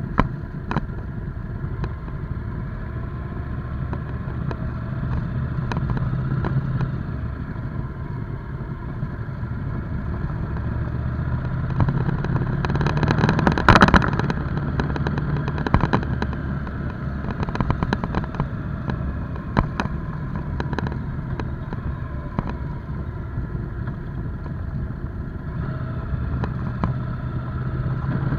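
Motorcycle engine running while riding, its pitch rising and falling as the speed changes, with a brief louder rush about halfway through.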